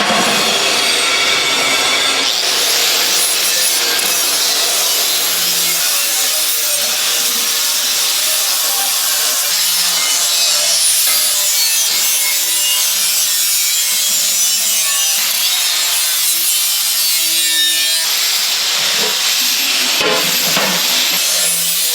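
Steady, continuous rasping of a tool cutting or abrading material, running without a break.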